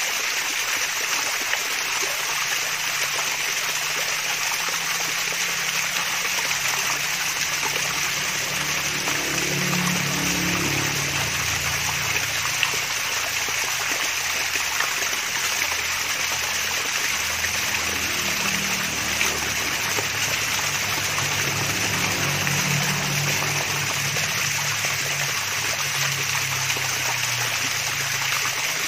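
Water from a mini waterfall trickling and splashing steadily, an even rushing hiss. A faint low hum comes and goes twice underneath.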